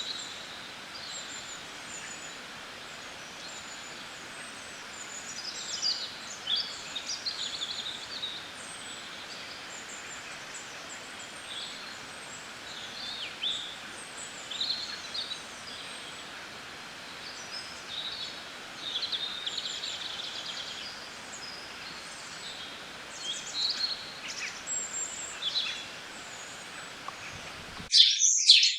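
Wild birds chirping and calling: many short, scattered chirps over a steady background of outdoor noise. Near the end it cuts suddenly to a louder, closer recording of dense, continuous chirping.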